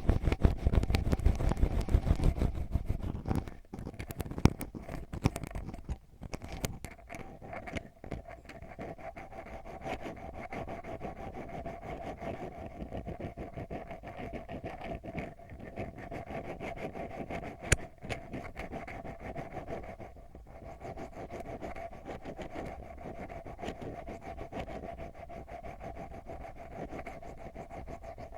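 Ear pick scratching continuously deep inside an ear-shaped ASMR microphone, a dense run of fine crackly strokes. It is heavier, with low rumbling handling noise, for the first three seconds, then settles into a steadier, lighter scratching.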